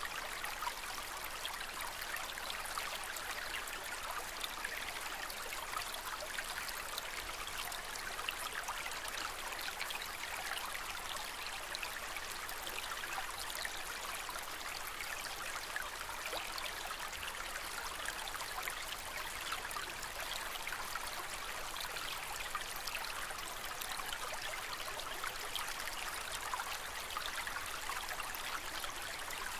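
Aquarium water trickling and splashing steadily, with a fine patter of small droplets and bubbles.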